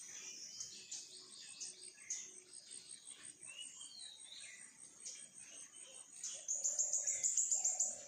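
Several birds chirping and calling, including a short whistled glide about halfway through, over a steady high pulsing trill. Near the end a louder, fast run of high notes.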